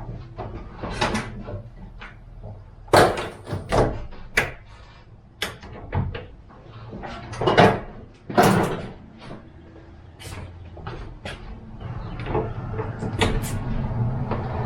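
Irregular knocks and clunks as the rear panel of a Kubota BX23S sub-compact tractor is unfastened, handled and taken off, over a steady low hum.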